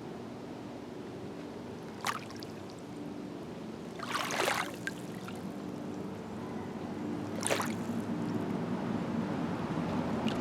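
Small waves of Green Bay lapping at the shore, with three splashes a few seconds apart; the middle one is the longest. Under them runs a steady low motor drone that grows a little louder in the second half.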